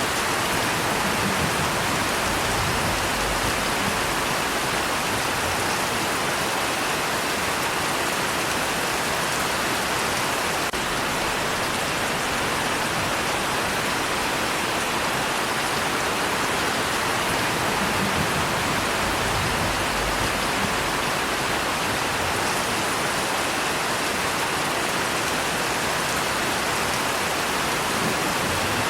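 Steady, even rainfall, a continuous hiss of rain with no breaks. Soft low rumbles of distant thunder swell under it twice, near the start and about two-thirds of the way through.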